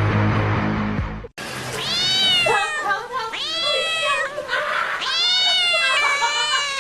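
Domestic cat meowing loudly in long, drawn-out cries, about four in a row, each rising and then falling in pitch. Before them, music plays for about the first second and then cuts off abruptly.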